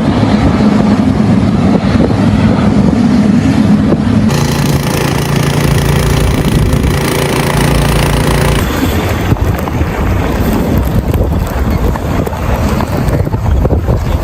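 Loud outdoor noise of vehicles running in a snowstorm, with some steady low engine hum. The sound changes abruptly twice, about four and eight seconds in, as separate clips are cut together.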